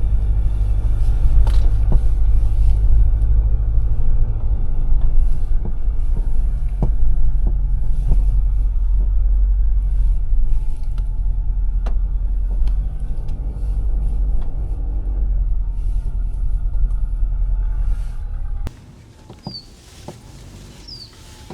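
Steady low rumble of a pickup truck on the move, with scattered clicks and knocks over it. It cuts off abruptly near the end to a quiet background with a few short, rising bird chirps.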